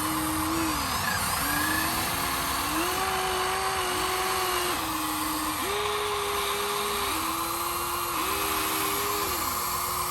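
Whine of an RC construction model's small electric motors. The pitch holds steady, then slides up or down to a new pitch about every second as the controls are worked.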